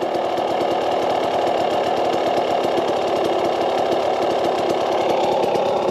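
KTM 300 XC-W's single-cylinder two-stroke engine idling steadily, a fast even putter with no revving.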